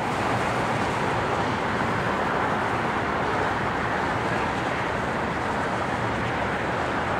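Steady urban outdoor noise, like a traffic roar, holding at an even level with no sudden crack or rumble of thunder.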